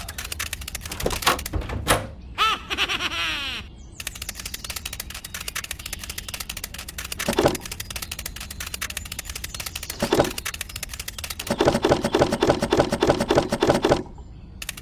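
Cartoon sound effects laid over a stop-motion scene. A fast run of light ticks runs throughout, a falling whistle-like glide comes about three seconds in, and a louder buzzing stretch sounds near the end.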